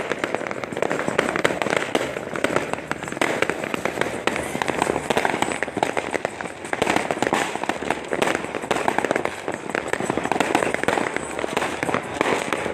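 Many firecrackers and fireworks going off at once: a dense, unbroken crackle of sharp pops with no pauses.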